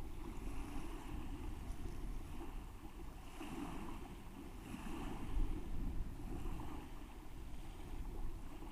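Lake water sloshing and splashing around a person wading in for a swim, with a low rumble of wind on the microphone.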